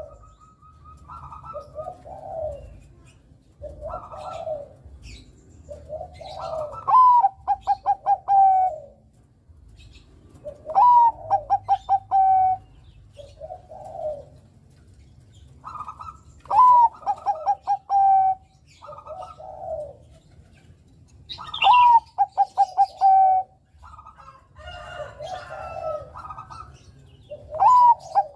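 Zebra dove (Bangkok-strain perkutut) cooing. Its song repeats about every five seconds: a quick run of short notes ending in a long held coo, with softer coos in between.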